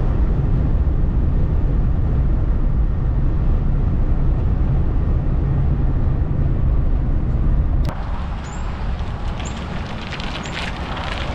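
Low, steady rumble of a vehicle on the road, heavy in the bass. About eight seconds in it cuts abruptly to a quieter, different road noise with a few faint clicks.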